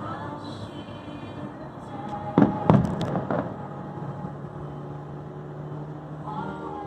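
A quick cluster of firework bangs, four or five in about a second, from about two and a half seconds in, over steady background music.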